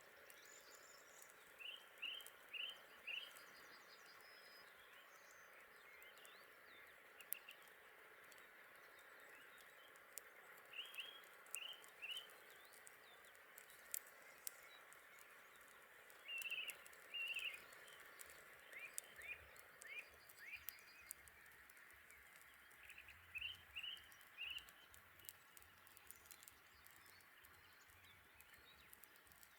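A songbird calling faintly in short phrases of three or four quick chirps, repeated every few seconds, over a steady faint hiss, with a few sharp clicks scattered through.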